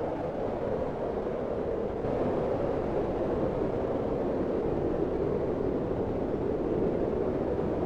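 Steady low rushing noise of a cabin ambience track, centred low in pitch, with no distinct crackles or pops. It grows a little louder about two seconds in.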